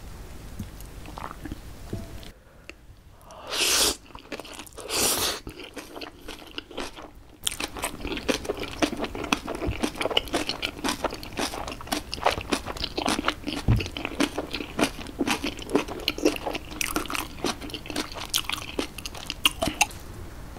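Close-miked eating of napa cabbage kimchi with jjapaghetti noodles. Two short, loud slurps come a few seconds in, then a long run of crisp, wet crunches as the kimchi is chewed, several a second.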